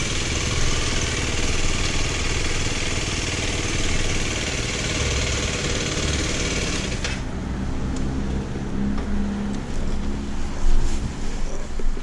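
Motorcycle engine running under heavy wind rush on the microphone while riding. About seven seconds in the wind noise cuts off abruptly and the engine carries on alone at lower speed, its pitch shifting.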